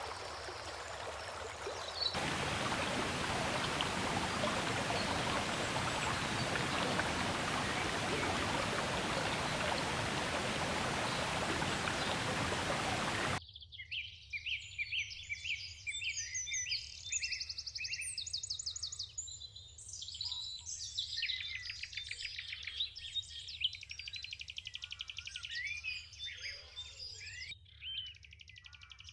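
A steady rushing noise, like running water or wind, that cuts off abruptly about halfway through. Songbirds then sing over a quiet background: rapid trills and chirps from several birds.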